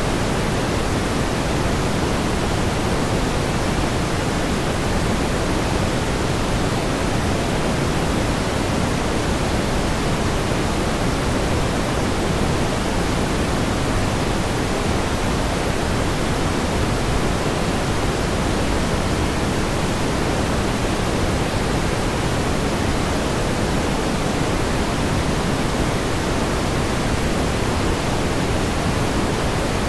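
Pink noise: a steady, even hiss with more weight in the low end than the top, unchanging throughout.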